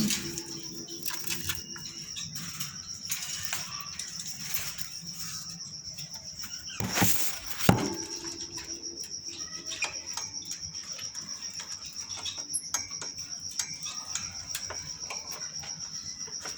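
Pet parrot flapping and rustling its wings in a short loud burst about seven seconds in, with small scattered clicks and scuffs around it. A steady high-pitched whine runs underneath.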